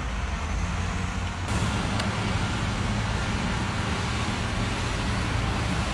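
Heavy truck engine running steadily, growing louder about one and a half seconds in, with a single sharp click about two seconds in.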